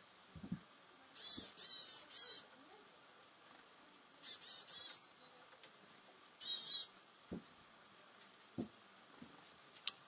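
A small wild bird calling in short, high-pitched, wavering bursts: three close together about a second in, then one burst about four seconds in and another about six and a half seconds in. A few soft low thumps fall between the calls.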